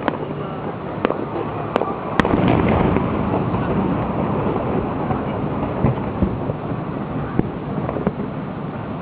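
Fireworks going off: a few sharp bangs in the first two seconds or so, then a louder, denser stretch of noise, with scattered smaller pops after it, over a steady background rumble.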